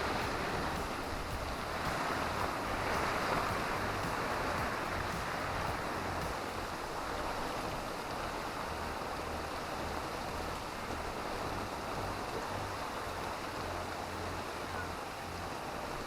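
Heavy rain and strong gusty wind during a storm: a steady rushing noise that swells and eases slightly, with wind buffeting the microphone in low rumbles.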